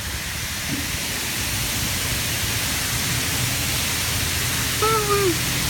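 Steady hiss of spraying water, as from car wash jets, with a low rumble underneath. A brief high-pitched sound slides down in pitch near the end.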